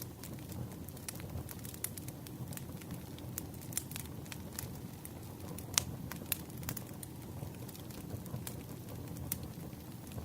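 Wood campfire burning: a steady low rumble of flame with frequent sharp, irregular crackles and pops, the loudest pop about six seconds in.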